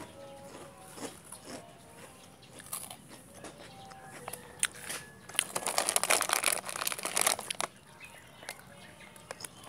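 Someone chewing and biting crunchy food close to the microphone, with scattered crisp crunches and a dense run of loud crunching from about five to seven and a half seconds in.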